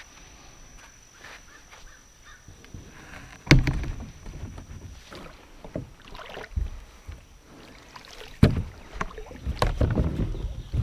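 A kayak being handled and launched, with two loud knocks against the hull about three and a half and eight and a half seconds in. Smaller knocks and rustling come in between and cluster near the end.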